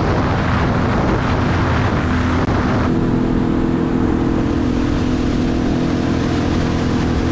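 Sea-Doo Spark Trixx 90 hp personal watercraft engine running steadily under way, with a rush of water and air over it. About three seconds in the rushing hiss drops back and the engine's steady hum stands out more clearly.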